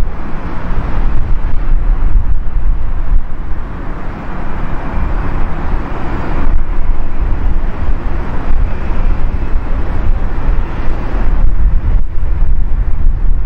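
Jet airliner engine noise, a steady broad roar that is strongest around the middle, with wind buffeting the microphone.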